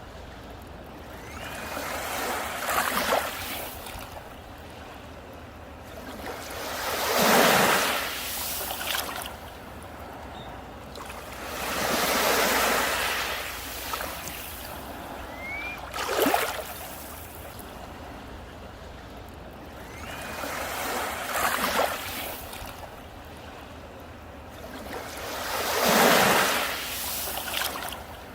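Sea waves breaking on a beach: a steady wash of surf that swells into a crash about every four to five seconds, six times.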